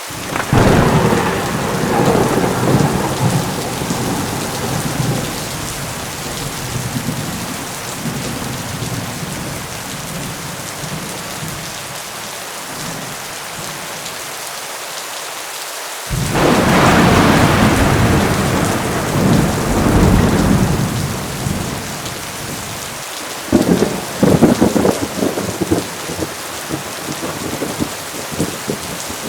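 Heavy rain falling steadily, with thunder rolling three times: a long rumble just after the start that fades over several seconds, a louder clap about sixteen seconds in, and a crackling, broken rumble about twenty-three seconds in.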